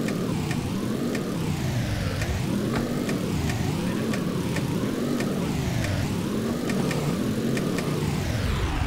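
A car engine running steadily, its pitch rising and falling in an even rhythm a little more than once a second, with faint regular ticks.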